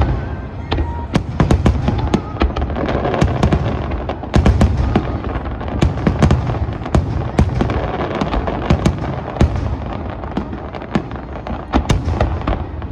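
Fireworks display: aerial shells bursting in quick, overlapping succession, several bangs a second over a continuous low rumble and crackle. The densest, loudest stretch comes about four and a half seconds in.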